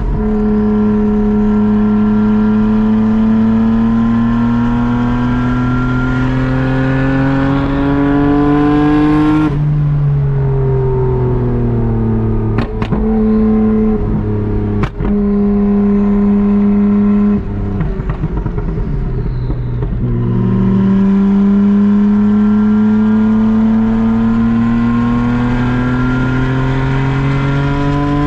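Nissan Skyline R32 GT-R's twin-turbo straight-six, breathing through a Tomei side-exit exhaust, pulling hard. Its note climbs steadily for about nine seconds, drops at an upshift and holds lower for a while, then climbs through another long pull near the end. Two short clicks come in the middle.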